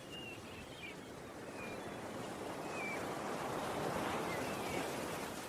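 Ocean surf washing in, swelling to a peak about four seconds in and then ebbing, with a few faint short high calls over it.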